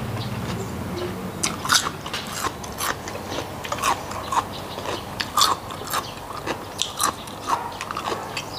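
Close-miked wet chewing and lip smacking of raw salmon strips pickled in soy sauce, with sharp irregular mouth clicks about twice a second.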